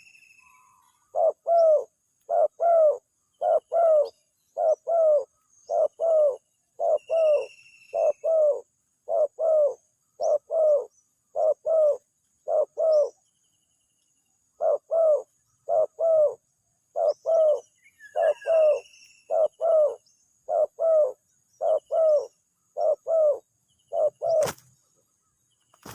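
Spotted dove (tekukur) cooing: a long run of low paired coos at an even pace, about one pair a second, pausing briefly near the middle and then going on. Faint chirps of small birds sound above it, and a sharp click comes near the end.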